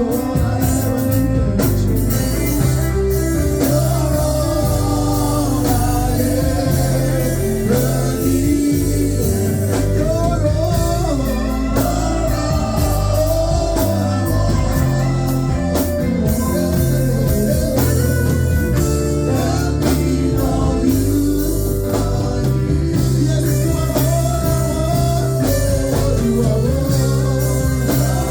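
Live worship music: a band with electric guitar, bass and drum kit playing a steady groove while singers carry the melody.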